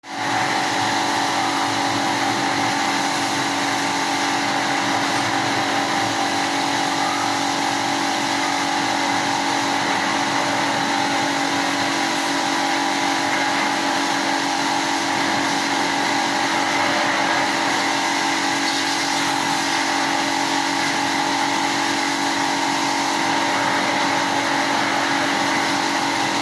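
Pressure washer running steadily with a constant motor hum while spraying water to clean an air conditioner unit.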